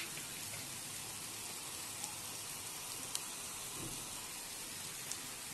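Clam meat sizzling in oil in a frying pan, a steady hiss with a few faint pops.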